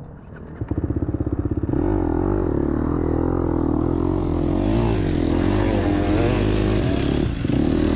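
Dirt bike engine firing in fast even pulses about a second in, then running steadily with small blips of the throttle.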